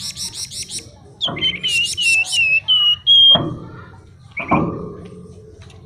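A flamboyan songbird singing in bursts: a fast rattling trill, then a run of clear whistled notes that dip and rise, and another trilled phrase near the end.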